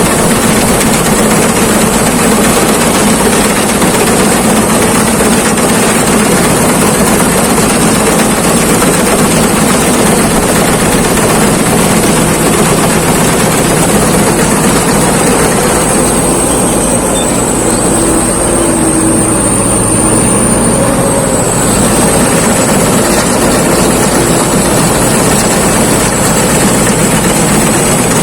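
Thai-built rice combine harvester running steadily while harvesting, a dense mechanical noise with a constant high whine above the engine.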